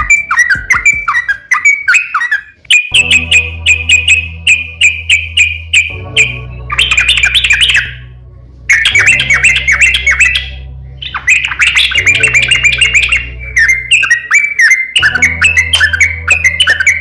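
A crokcokan songbird singing in fast, loud chattering phrases of short, clipped notes, with brief pauses between phrases, over a steady low hum.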